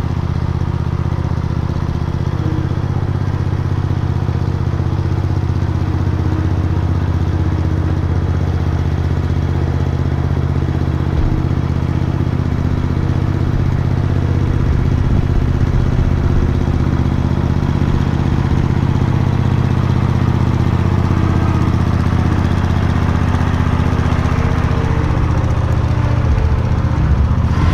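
Engine running steadily at low speed, a little louder from about halfway through.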